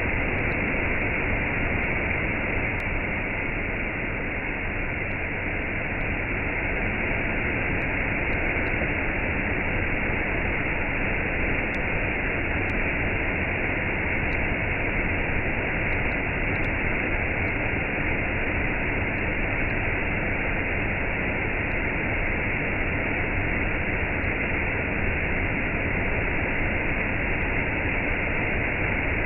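Waterfall and cascade, water falling in a steady, unbroken rush with no change in level.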